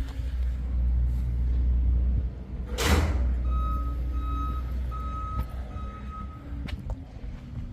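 A low, steady engine rumble, a loud short hiss about three seconds in, then a run of four short electronic beeps.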